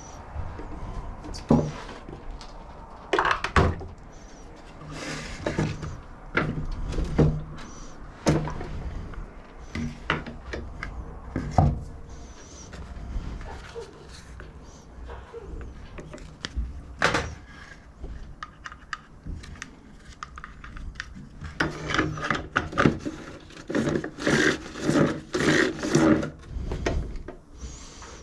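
Hand tools and parts being handled during repair work on a lawn mower's self-propel drive: scattered knocks, clicks and scraping, with a busy run of rapid knocks near the end.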